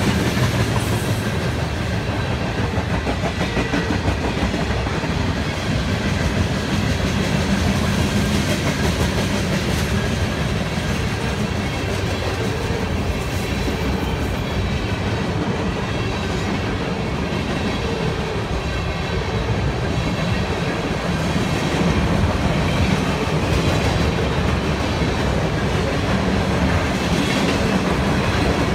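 Mixed freight train's cars (covered hoppers, tank cars and boxcars) rolling steadily past: a continuous rumble of steel wheels on the rails, with faint occasional clicks.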